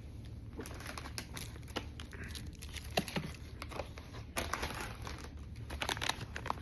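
Plastic snack wrappers crinkling as they are handled, with scattered short crackles.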